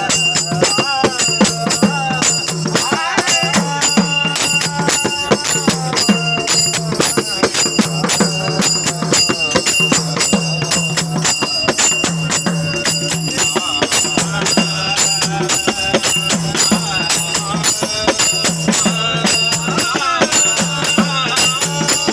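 Marathi devotional bhajan in raga Bhairavi, played and sung by a group: a steady, dense clash of small hand cymbals and jingling percussion over a repeating drum beat, with a sustained melody and singing voices.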